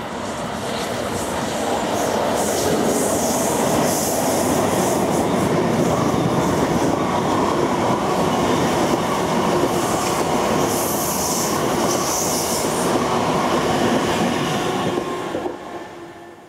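Electric locomotive-hauled passenger train passing close by: a steady rumble of wheels on rail with a clattering over the track. The sound builds over the first two seconds, has spells of high hiss now and then, and fades out fast near the end.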